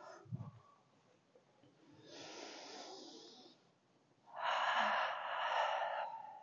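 A person breathing audibly: a faint breath about two seconds in, then a louder, longer breath out of about two seconds.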